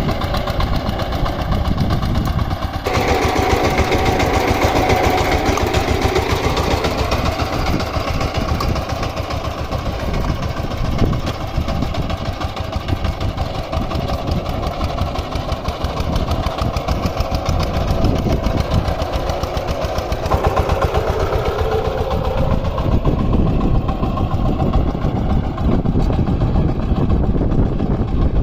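VST Shakti 130 DI power tiller's single-cylinder diesel engine running steadily, its note changing about three seconds in and again about twenty seconds in.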